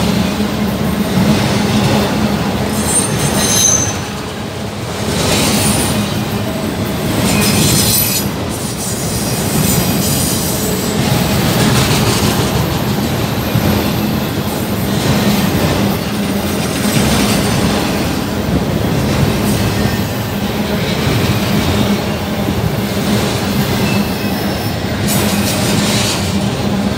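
Autorack freight cars rolling past close by: a steady rumble and clatter of steel wheels on the rails, with brief high wheel squeals a few seconds in.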